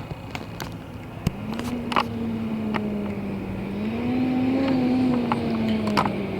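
An engine running with a steady hum that rises slightly in pitch about a second in and then eases down. A few sharp clicks sound over it.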